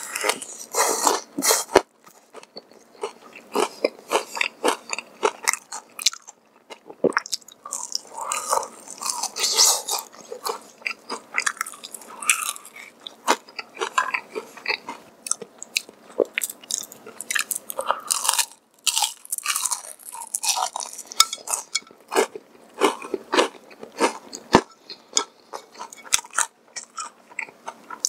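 Close-miked biting and chewing of crispy fried chicken: dense, irregular crunching with a few brief pauses.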